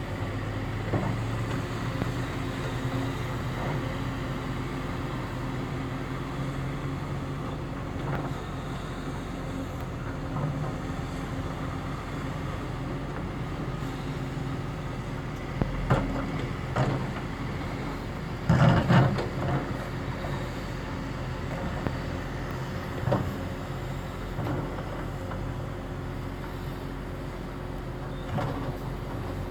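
Heavy diesel engine of a CAT 330F excavator running steadily while loading dump trucks with topsoil, with several thuds and clunks; the loudest cluster comes about two-thirds of the way through.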